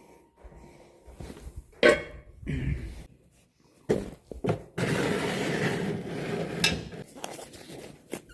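Metal hand tools and mower parts clinking and knocking: a handful of sharp clinks, with a few seconds of scraping, rattling handling noise about five seconds in.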